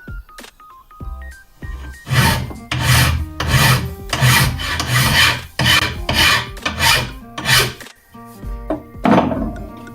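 Hand filing on metal, about ten rasping back-and-forth strokes at a little under two a second, with a light melody of background music before and after the strokes.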